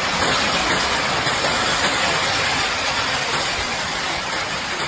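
Steady rushing hiss of a strong windstorm.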